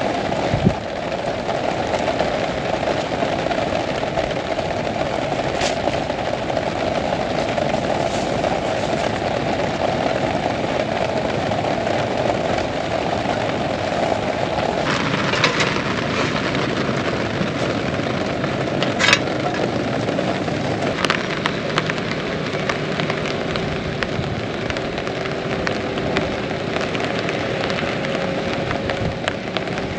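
Heavy rain falling steadily, a dense hiss, with a few sharp cracks scattered through it; the loudest crack comes about nineteen seconds in.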